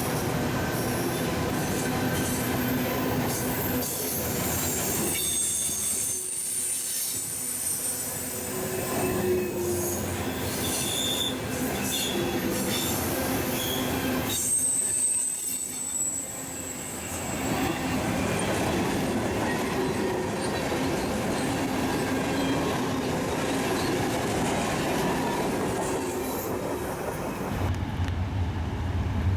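A train rolling past with a steady rumble and clatter of cars on the rails. Its wheels squeal in high, thin tones, in two stretches.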